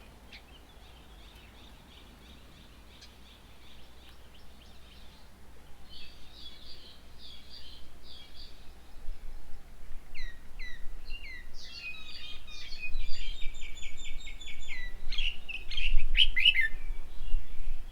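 Several small birds chirping and calling, sparse at first and growing busier and louder in the second half, with a rapid run of repeated notes and a few sharp downward-sweeping calls near the end.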